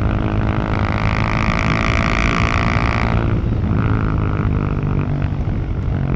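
Husqvarna 701 Supermoto's single-cylinder engine and exhaust under way, a steady droning note. Its sharper upper tone drops away about three seconds in.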